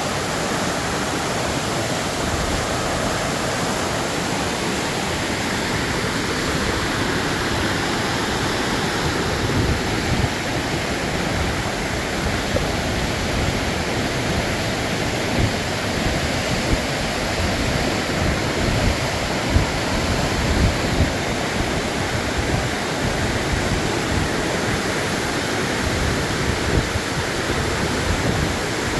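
Waterfall: a steady, dense rush of falling water, with small uneven surges in its low rumble.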